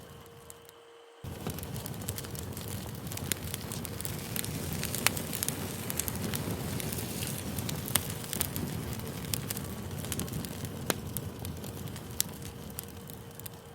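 Campfire crackling: a steady hiss of burning wood with frequent sharp pops and snaps. It is faint for the first second, then comes back in abruptly at full level.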